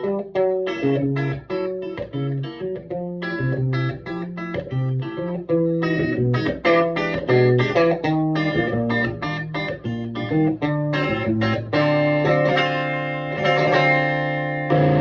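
Electric guitar played through a Vintage Sound Amp (VSA) valve amp: a quick run of picked single notes over lower bass notes, settling about twelve seconds in onto a chord that is left to ring.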